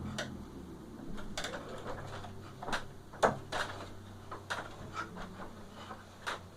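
Scattered knocks, taps and scrapes of a small box being handled and knocked about during play, about eight irregular hits with the loudest a little past three seconds in.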